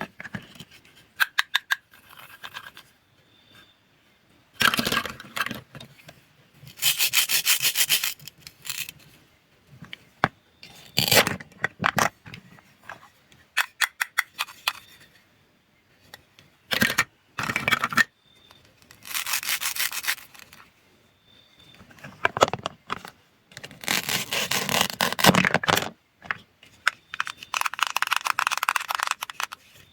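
Food being cut, heard as repeated rasping, scraping strokes in bursts of one to two seconds, with short clicks and taps between them.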